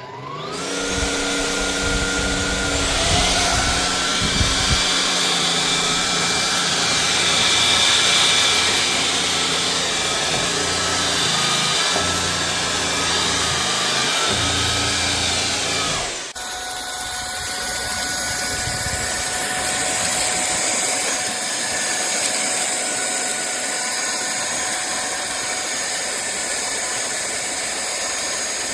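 INTETURE cordless stick vacuum cleaner's motor spinning up and then running steadily with a high whine over a rushing of air. About sixteen seconds in the sound changes abruptly to a slightly quieter, lower-pitched run.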